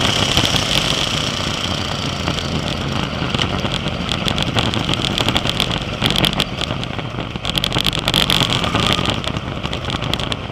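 Sprint car engine running steadily without revving up or down, with crackling noise over it from about three seconds in.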